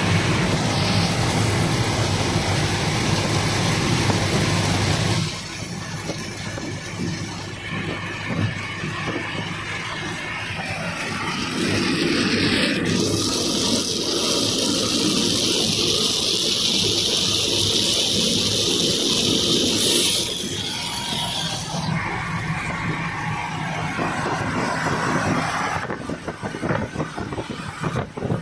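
Steady rushing noise of a moving vehicle in heavy rain, with the tone changing abruptly several times.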